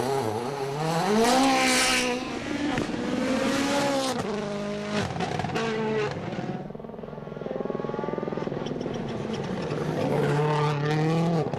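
Rally car engine revving hard through the gears, its pitch climbing and dropping sharply at each upshift. It eases off and goes quieter around the middle, then climbs again near the end.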